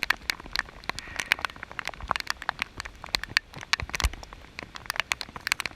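Steady rain falling, heard as many sharp, irregular drop hits close by, with one low thump about four seconds in.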